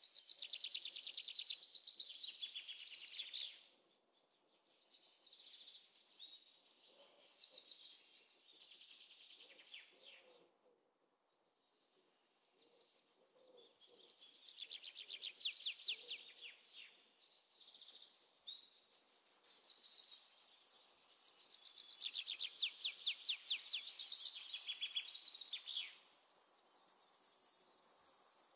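Songbirds chirping and trilling in repeated bouts of fast, high notes, each bout a few seconds long with short pauses between.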